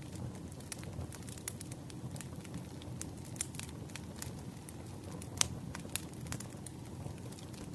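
Wood campfire burning: a low, steady rumble of flames with irregular sharp crackles and pops from the burning wood. The loudest pop comes about five and a half seconds in.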